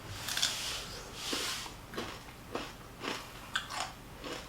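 Close-up eating sounds: chewing and soft, irregular mouth smacks and clicks, a few times a second.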